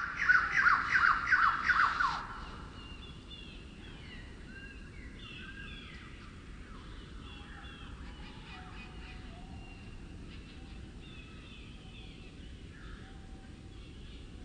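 Forest birdsong slowed down two and a half times. A loud run of about six falling notes fills the first two seconds, then softer chirps and short whistles from several birds follow.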